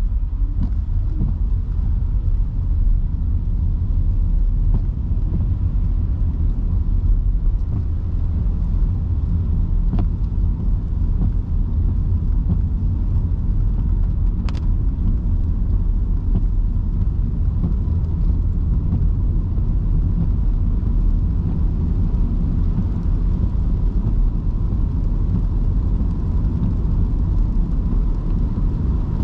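Steady low rumble of a car driving on wet roads in heavy rain: tyre and road noise with a hiss of rain and spray. There are two brief clicks, about ten and fourteen seconds in.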